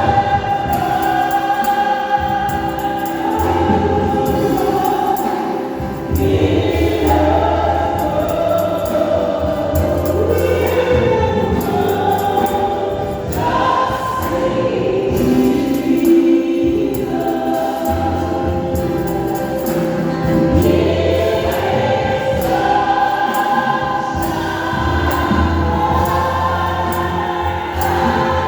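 Church choir singing a gospel song in full harmony, in long held phrases over a steady bass line.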